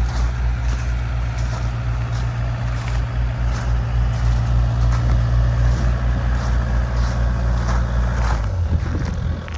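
Truck engine running steadily while driving, a loud low drone with road noise; about a second before the end the engine note shifts lower.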